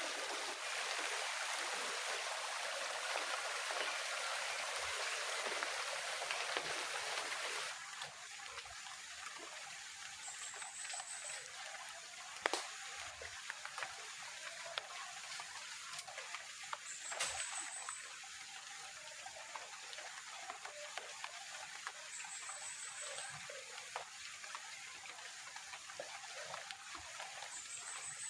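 Heavy rain falling on the forest as a steady hiss. About eight seconds in it suddenly drops to a lighter, quieter patter with a few sharp drip taps, and a short high chirp repeats every five or six seconds.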